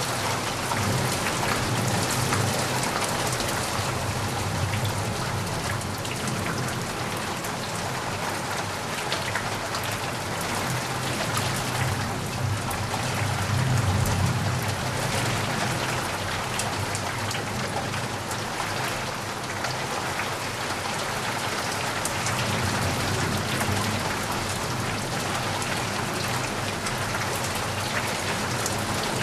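Steady rainfall, many drops pattering on a surface, over a low rumble that swells and fades.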